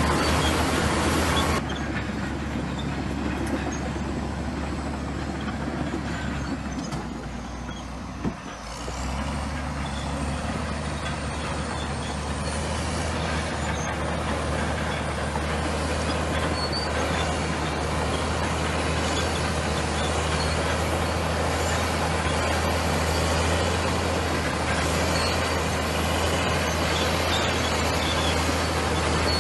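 Komatsu bulldozer's diesel engine running steadily under work. It eases off about eight seconds in, with a single sharp knock, then comes back up and holds.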